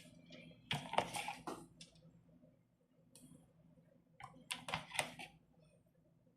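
Light clicks and taps of kitchen utensils and dishes being handled, in two short clusters about a second in and again near the five-second mark.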